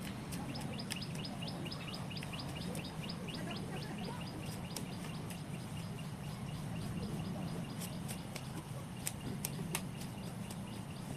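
A bird calling in a fast, even series of short high chirps, about four a second, which stops about halfway through; a few sharp clicks follow, over a steady low background rumble.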